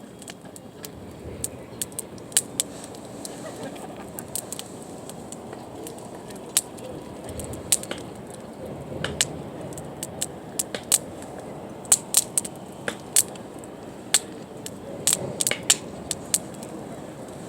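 Wood campfire crackling: sharp, irregular pops and snaps, some in quick clusters, over a low steady background rumble.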